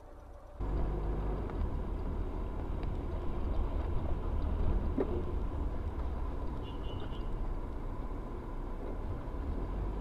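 Steady rumble of a moving car's engine and road noise, starting abruptly about half a second in.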